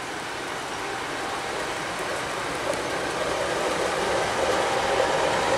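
Empty container flat wagons of a freight train rolling past on the rails, a steady noise of wheels on track that grows gradually louder.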